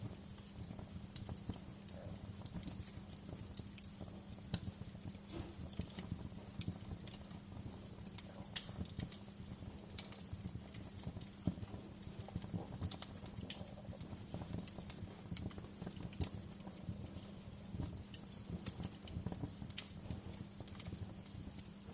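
Wood fire crackling: frequent irregular pops and snaps over a low steady rumble.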